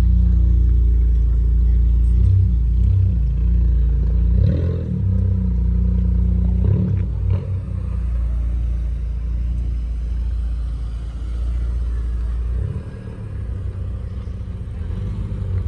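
Car engine running with a steady low rumble that dips briefly a few times.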